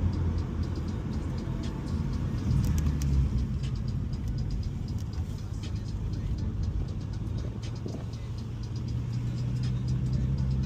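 2017 Ford Mustang's 3.7-litre V6 with an MBRP exhaust and H-pipe, cruising under light throttle, heard from inside the cabin. It is a low, steady exhaust drone that swells slightly a few seconds in and again near the end.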